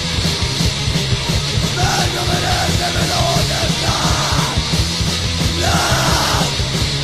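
Fast hardcore punk song played by a full band, with shouted vocals coming in short bursts.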